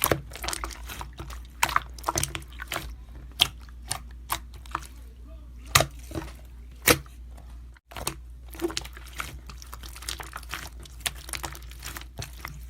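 Irregular sharp clicks and crackles, several a second, some much louder than the rest, over a steady low hum.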